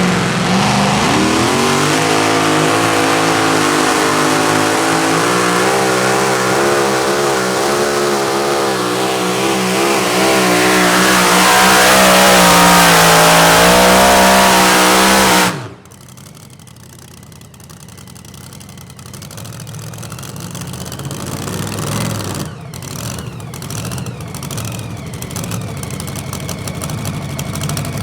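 V8 engine of a two-wheel-drive pulling tractor running flat out under load through a pull, its pitch wavering, loudest just before it cuts off suddenly about halfway through. After that the engine settles to a much quieter low idle that slowly grows louder.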